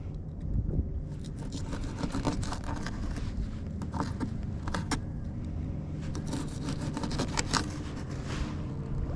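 Jet ski engines droning steadily, with scattered sharp clicks and scrapes of gear being handled close by.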